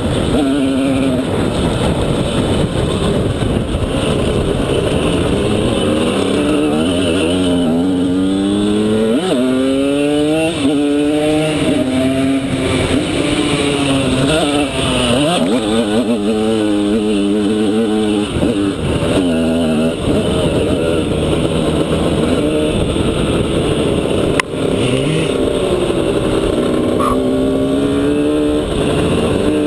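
Simson S51's single-cylinder two-stroke engine revving up and down again and again as the bike is ridden and shifted through the gears, with one sharp knock about 24 seconds in.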